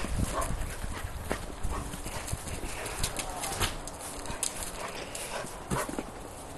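A cat chewing a freshly caught field mouse: irregular crunching clicks as it bites through the bones.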